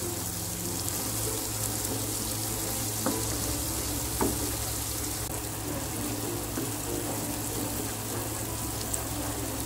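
Pounded spice paste of shallots, garlic and candlenuts sizzling steadily in hot oil in a non-stick wok while it is sautéed until fragrant, stirred with a wooden spatula. Two light knocks of the spatula against the pan come about three and four seconds in.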